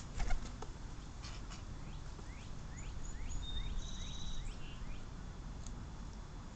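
European starlings calling: a series of quick rising whistles, then a high, buzzy, trilled whistle in the middle. A few sharp clicks come near the start, over a steady low rumble.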